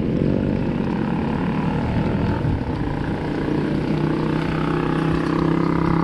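Motorcycle engine running steadily under way, with wind and road noise, its note settling to an even pitch about four seconds in.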